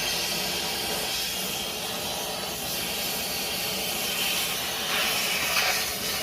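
A steady, loud hiss of rushing air or gas, swelling briefly a few times near the end.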